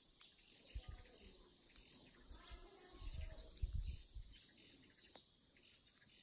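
Small birds chirping, short high calls repeated again and again, with a few low bumps in between.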